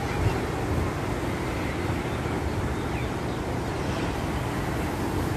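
Steady outdoor background noise: a low rumble with hiss.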